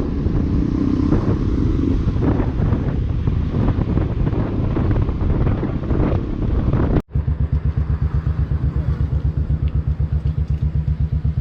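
Motorcycle running on the road with wind noise for about seven seconds. After a sudden cut, a motorcycle engine idles with an even, rapid pulsing beat.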